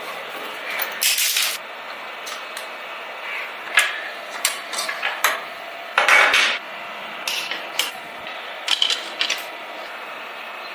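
Small hard metal and plastic parts clicking, clinking and scraping at irregular moments, as when a diecast scale model car and its small parts are handled and taken apart on a work surface. There are two longer rattling scrapes, about a second in and about six seconds in.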